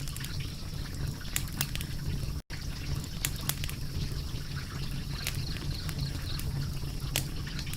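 Wood fire crackling: a steady low rumble with frequent sharp pops and snaps. The sound drops out for an instant about two and a half seconds in.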